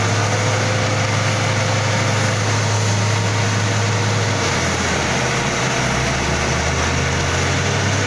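Vehicle engine running steadily over a thick wash of noise, its low hum shifting down in pitch about four seconds in.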